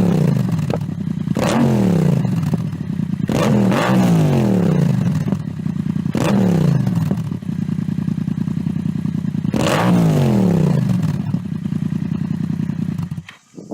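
Yamaha MT-07's parallel-twin engine idling through an aftermarket exhaust and being revved in short throttle blips, five times, each one falling back to idle. The sound cuts off suddenly near the end.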